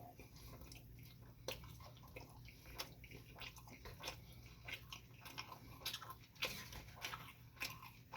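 A person chewing and eating noodles, with irregular wet mouth smacks and clicks.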